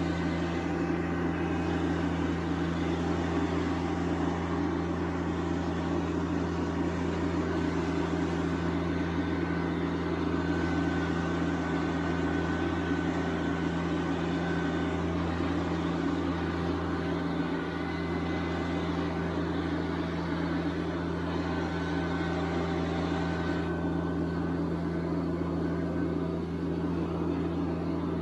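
Compact tractor's diesel engine running steadily at constant speed.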